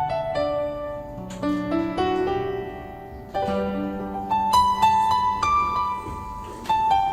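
Gentle background piano music playing a slow melody of single held notes over sustained bass notes.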